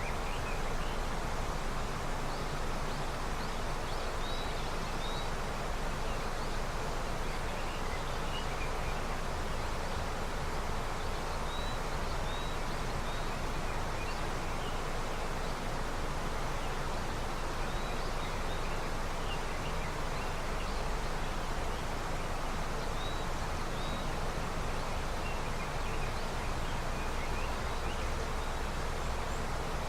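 River running high with snowmelt: a steady, even rush of flowing water, with brief high bird chirps scattered through it.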